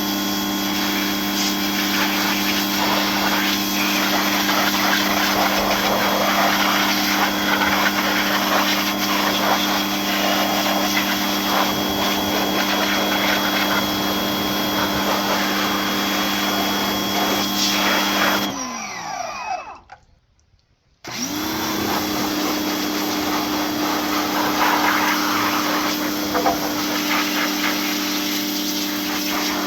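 A motor-driven machine runs with a steady hum and hiss. About 18 seconds in it shuts off and winds down with a falling whine to silence, then starts again about two seconds later and runs on.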